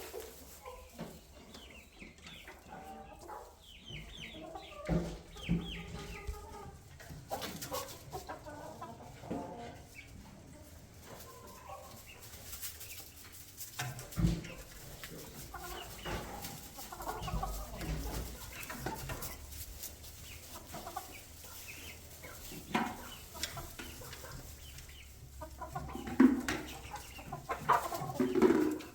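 Flock of chickens clucking with short, scattered calls, with a few knocks and scuffles of birds moving about the coop.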